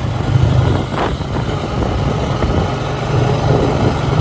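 ATV engine running under way, a steady low drone.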